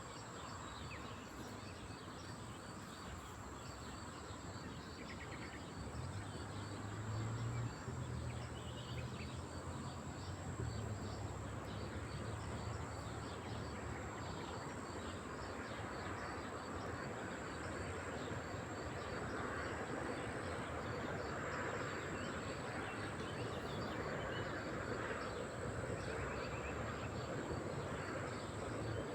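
Lakeside ambience: a steady high-pitched insect drone with many small birds chirping, over a low rumble.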